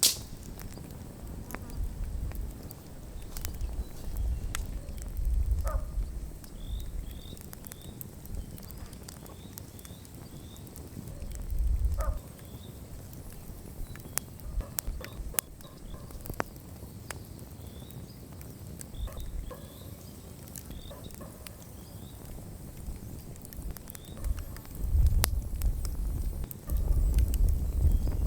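Wood campfire crackling, with scattered sharp pops. Small groups of short high chirps come and go through the middle, and a low rumble swells up several times, loudest near the end.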